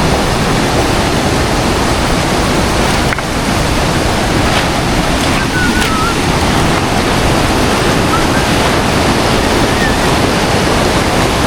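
A big, fast river rushing, a loud, steady wash of water.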